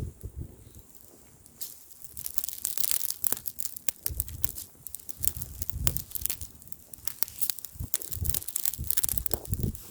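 Bonfire crackling and popping with many sharp, irregular snaps, the crackling picking up about a second and a half in. Gusts of wind rumble on the microphone underneath.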